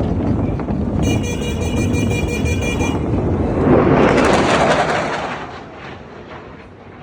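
An aircraft passing over: a loud rushing engine noise that swells to a peak about four seconds in, then fades away. From about one to three seconds in, a high steady tone sounds over the noise.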